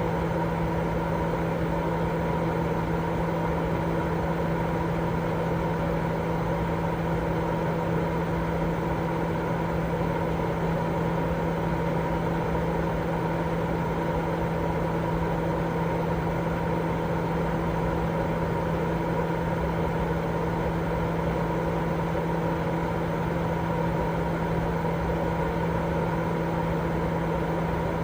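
Continuous baby-sleep white noise: an unchanging hiss, heavier in the lower range, with a steady low hum and a fainter higher tone running through it, like a motor or fan.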